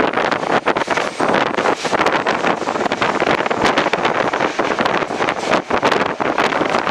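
Loud running noise of an express passenger train carriage in motion: rushing wind on the microphone, with irregular rattling and clatter throughout.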